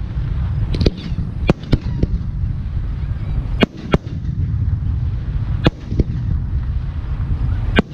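Aerial firework shells bursting in sharp, irregular bangs, about seven of them, over a steady low rumble.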